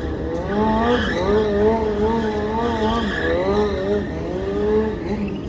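Stunt motorcycle engine revving hard, its pitch held high and wavering up and down through the run.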